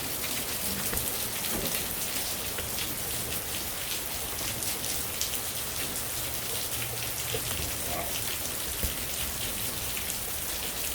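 Heavy rain falling, a steady hiss with many individual drops ticking on surfaces.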